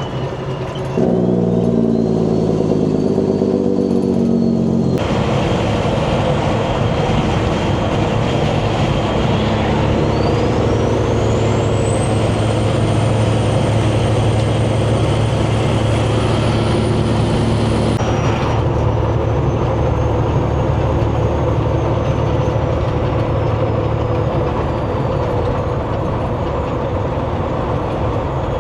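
Semi truck's diesel engine pulling under load, its pitch climbing over a few seconds as it accelerates, then settling into a steady drone with road noise. A thin high whistle rises about ten seconds in.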